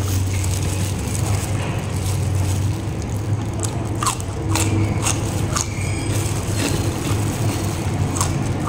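Crunchy bites and chewing of raw vegetables and rice eaten by hand, with a few sharp crunches about four to six seconds in and once near the end, over a steady low hum.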